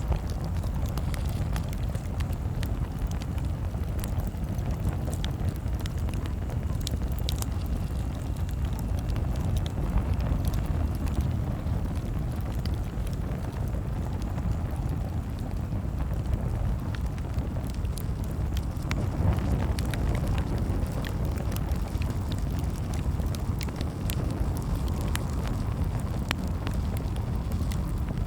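Campfire crackling, with scattered sharp pops and snaps over a steady low rumble of the burning fire.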